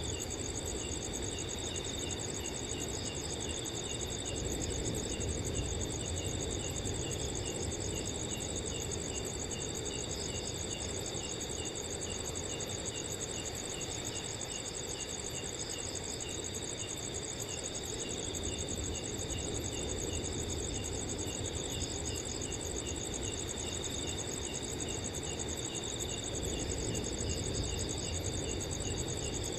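Several crickets chirping steadily in chorus, one with a regular chirp about three times a second, over a low, steady rush of wind.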